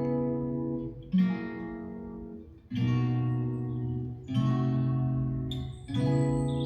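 Acoustic guitar strumming a slow chord progression, one chord about every second and a half, each left to ring and fade: a song's instrumental intro played back through KEF LS50 Meta bookshelf speakers driven by a Rega io amplifier.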